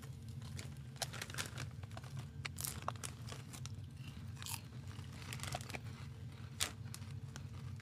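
Crisp pork rinds being bitten and chewed: quiet, scattered crunches.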